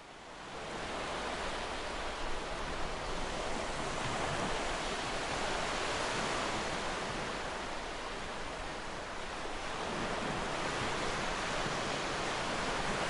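Ocean surf, an even rushing wash of waves that swells, eases, then swells again.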